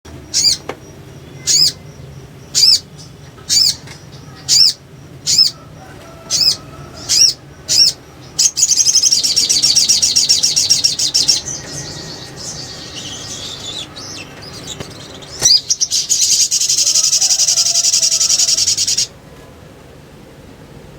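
Spiderhunter (sogok ontong) calling: about nine sharp, high call notes roughly a second apart, then long, fast, high-pitched chattering trills that stop near the end.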